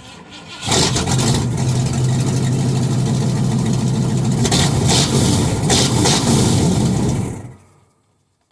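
1990 Ford Econoline E350 van engine starting up and running loudly and steadily with a deep hum, its exhaust ending at the muffler instead of being piped to the back; it stops near the end.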